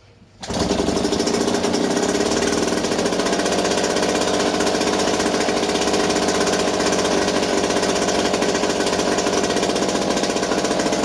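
1977 British Seagull 40+ single-cylinder two-stroke outboard motor catching on a pull start about half a second in, its revs rising briefly and then running steadily with the propeller off, its leg in a bucket of water to test the cooling water pump.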